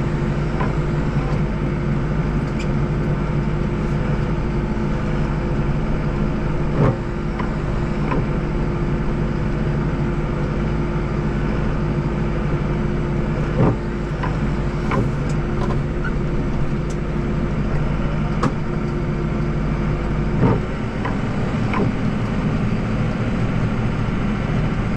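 Deutz tractor engine running steadily at constant speed, with three sharp knocks spread through.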